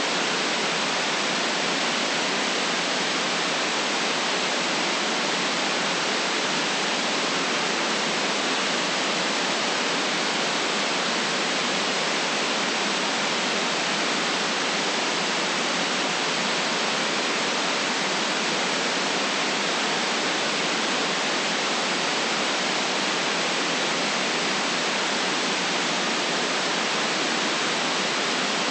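Steady white noise: an even, unchanging hiss with no deep bass and no change in level.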